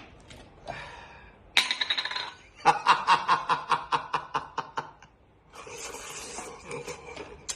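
A person laughing: a short voiced sound, then a quick run of giggling pulses lasting about two seconds, followed by a breathy exhale.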